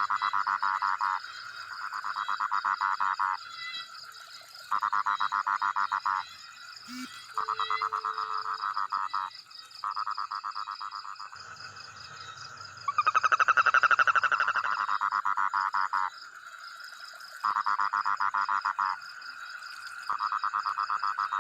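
Frogs calling: a series of about eight rapid pulsed trills, each one to two seconds long, with short gaps between them. The loudest and longest trill comes about two-thirds of the way through. A steady, fast, high-pitched pulsing chorus of insects or distant frogs runs underneath.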